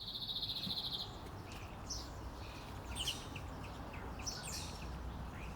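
Birds chirping in woodland ambience: a fast trill in the first second, then scattered short chirps over a low, steady background hiss.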